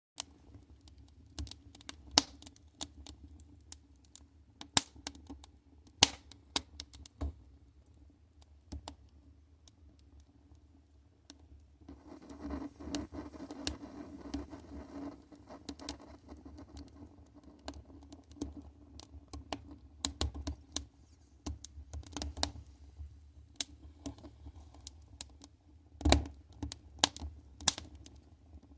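A fire crackling, with irregular sharp pops and snaps, a soft rushing of flame for a few seconds midway, and the loudest pop near the end.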